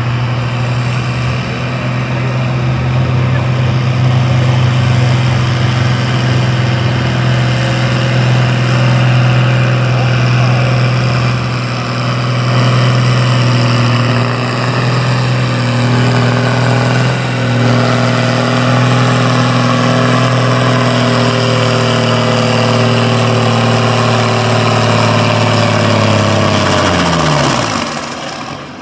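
Diesel farm pulling tractor's engine running hard at high, steady revs under load down the track. Near the end the revs fall off sharply as the throttle comes off at the end of the pull.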